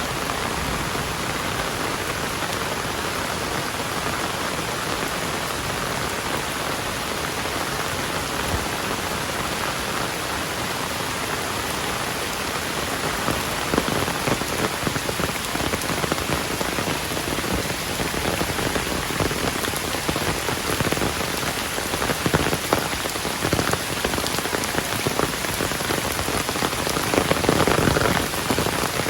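Heavy rain falling in a steady hiss, with louder spattering drops from about halfway through that are heaviest near the end.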